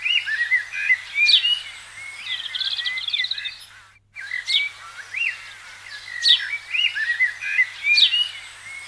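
Small songbirds chirping and singing: quick high chirps, sharp down-slurred whistles and short rapid trills. After a brief break about four seconds in, the same sequence of calls plays again.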